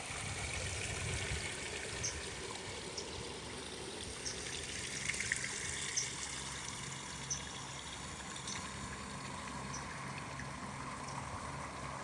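Water trickling steadily, with short high-pitched peeps recurring about every second or so.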